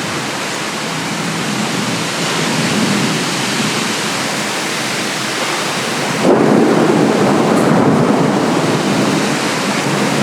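Heavy rain pouring steadily in a thunderstorm; about six seconds in, a deep rumble of thunder swells up and keeps rolling.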